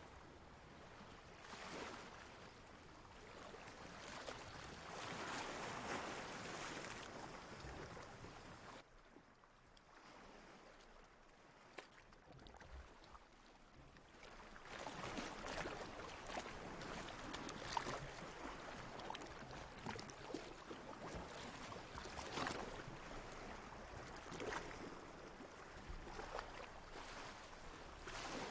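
Water washing and lapping in slow surges that swell and fall back every few seconds, with small splashy ticks; it dies down for a few seconds in the middle.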